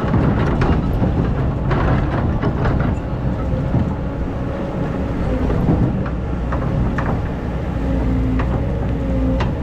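Excavator's diesel engine running steadily, with scattered sharp scrapes and knocks as the bucket digs into hard, compacted sand. A faint steady whine comes in about halfway through.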